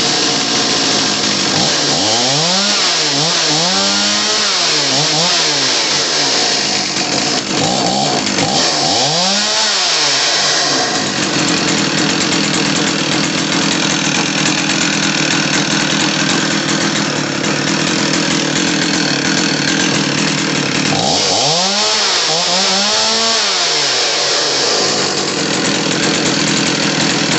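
Stihl 034 AV two-stroke chainsaw, just started, idling steadily and revved up and back down in bursts: three quick revs a couple of seconds in, one more near ten seconds, and two again past twenty seconds. It runs evenly, in good running order.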